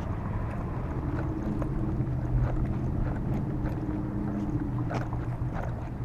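A steady low mechanical hum with a couple of faint steady tones in it, and light clicks scattered through.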